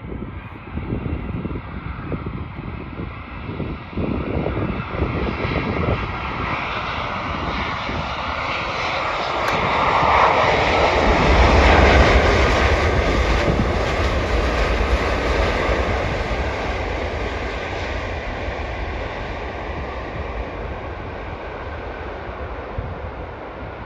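Boeing 787 airliner passing on its landing approach, its jet engines at approach power. The noise builds to its loudest about halfway through, with a faint tone that dips slightly in pitch as it goes by, then slowly fades away.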